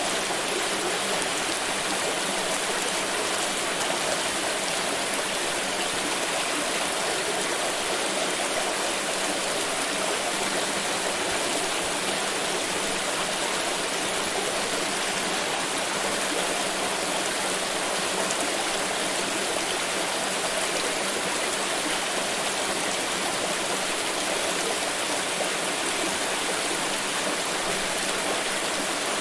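Water pouring in a steady, unbroken rush of splashing noise.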